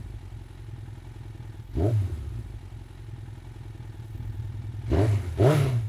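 Motorcycle engine idling with short throttle blips, each rising and falling in pitch: one about two seconds in and two in quick succession near the end.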